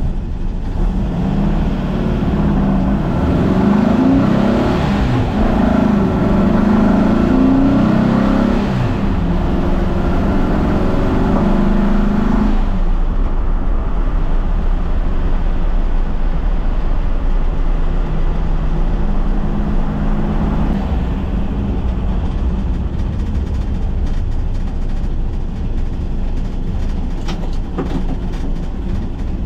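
1964 Volkswagen Beetle's air-cooled flat-four engine pulling away and accelerating. Its pitch rises and drops back several times as it goes up through the gears over the first dozen seconds, then it runs steadily at a lower pitch.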